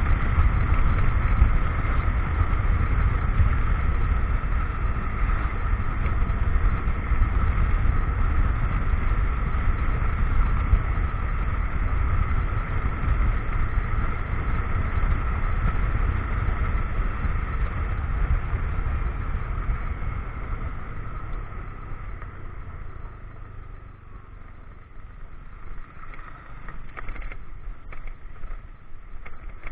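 Motorcycle riding, with the engine and the wind on the action camera's microphone making a steady low rumble and a constant whine. About two thirds of the way through it eases off and gets quieter, and a few sharp knocks follow near the end.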